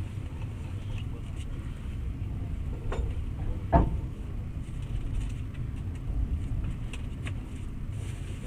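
Passenger train running steadily, heard from inside the carriage: a low rumble of wheels on rails. About three seconds in come two knocks a little under a second apart, the second the louder.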